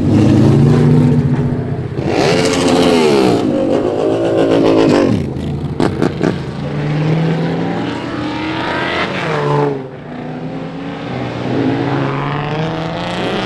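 Car engines revving hard and accelerating past, the engine note rising and falling several times, with a few sharp pops about six seconds in.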